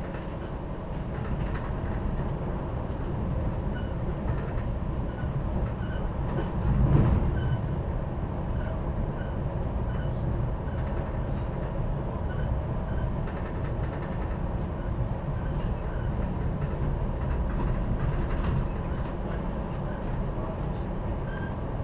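Metra commuter train rolling along the track at speed, heard from inside the passenger car as a steady deep rumble of wheels and car body. A brief louder surge comes about seven seconds in.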